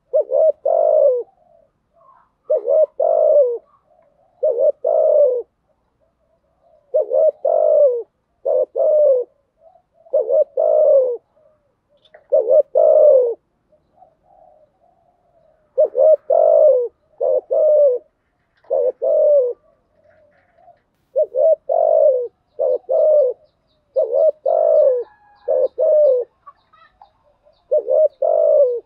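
Spotted dove cooing over and over in short phrases of two or three low coos with brief pauses between, the 'thúc gù' and 'gáy gọi' calls played as a lure to stir up and draw in other doves.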